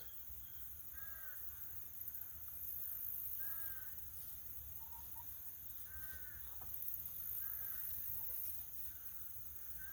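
Faint, harsh caw-like bird calls, about four of them spaced a couple of seconds apart, over a steady low outdoor rumble.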